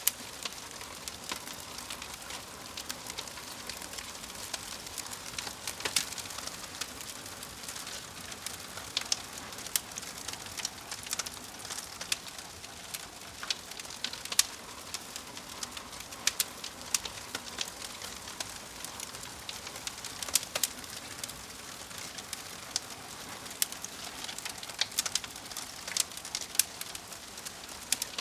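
Logs burning in a fireplace, crackling: a steady hiss with frequent sharp pops and snaps at irregular intervals, a few of them much louder.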